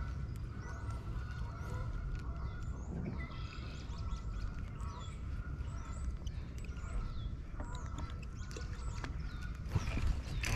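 Birds calling: a scattered string of short chirps and falling whistles over a steady low rumble.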